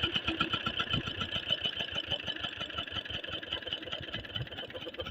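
8 hp diesel pump-set engine running steadily with a rapid, even chugging beat, driving the irrigation water pump.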